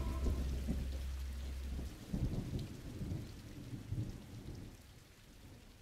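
Low, uneven rumbling under a light hiss, swelling twice and then fading away near the end.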